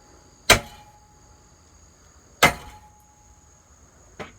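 Hammer blows on a metal ceiling fan: two hard strikes about two seconds apart, each leaving a brief metallic ring, then a lighter knock near the end.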